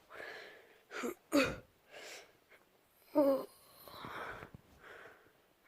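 A person's breathy, wordless vocal noises: a few short breaths or huffs with brief voiced sounds about a second in and again near three seconds.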